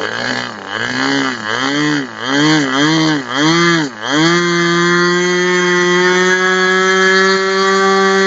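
ASP 25 two-stroke glow model engine swinging a 10×6 propeller on a test stand: the throttle is blipped up and down about six times, then opened and held at a steady high speed from about four seconds in.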